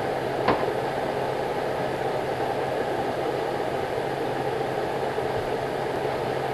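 Steady droning noise with a faint low hum, and a single sharp click about half a second in.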